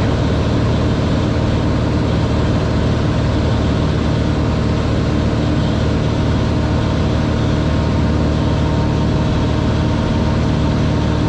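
Cessna 182R's six-cylinder Continental O-470 engine and propeller running steadily, a constant low drone with a wide noisy hiss over it.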